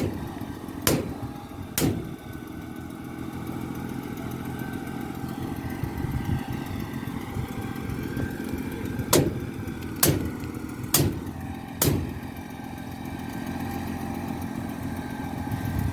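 Concrete pump truck's engine running steadily. Over it come sharp knocks: two near the start, then four about a second apart in the middle.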